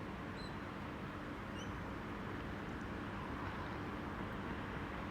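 Steady low hum and rumble of a Tangara electric train at the station, with a couple of faint bird chirps in the first two seconds.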